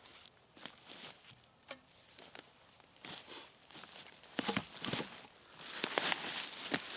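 Rustling and scattered light knocks and clicks, as of someone moving about and handling sticks on the forest floor; sparse at first, louder and busier from about four and a half seconds in.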